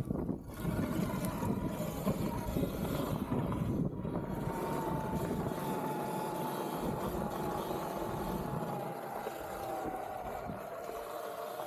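Electric dirt bike motor whining while riding, its pitch sliding slowly down as it eases off, over a steady low rumble.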